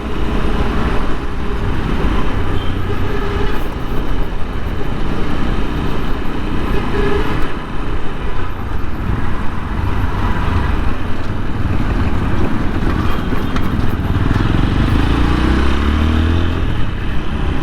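TVS Apache RTR 160 4V's single-cylinder engine running as the motorcycle rides through city traffic, under steady wind rumble on a chin-mounted mic. Its pitch rises near the end as it accelerates.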